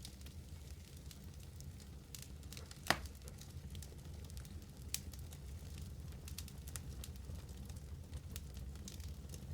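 Wood fire crackling in a fireplace: a low steady rumble with scattered small pops and ticks, and one sharper pop about three seconds in.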